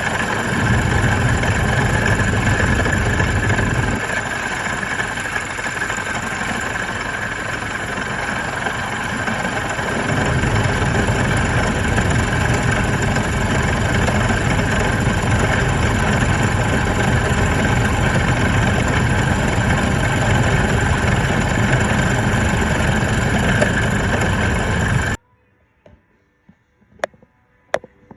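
Car engine running with a bad serpentine-belt idler pulley, its worn bearings making a steady noise with constant high-pitched tones over the engine. The sound cuts off suddenly near the end, leaving a few faint clicks.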